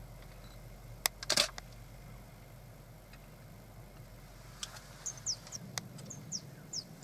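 A short sharp knock and rustle about a second in, then from about five seconds a run of short, high, falling chirps, a few a second, from a small bird, over a faint low hum.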